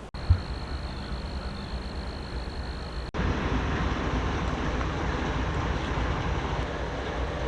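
Train rolling by on the tracks: a steady low rumble with a thump just after the start, growing louder and fuller after an abrupt cut about three seconds in. A thin, steady high tone sounds over the first three seconds.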